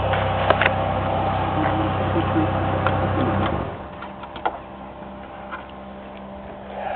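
The 1996 Chevy Cavalier Z24's 2.4-litre twin-cam four-cylinder engine idles steadily, then cuts off suddenly about halfway through. A few faint scattered clicks and ticks follow.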